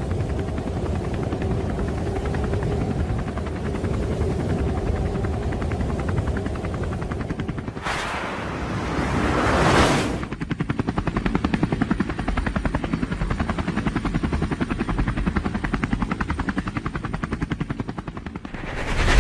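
Helicopter rotor chopping with a rapid, even beat. A rushing swell of noise builds from about eight seconds in and cuts off near ten seconds, after which the blade beats stand out more sharply.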